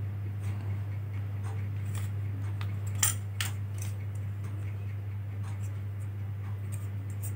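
Light plastic and metal clicks and taps from handling laptop parts as the original DVD-drive bezel is tried on, with two sharper clicks about three seconds in. A steady low hum runs underneath.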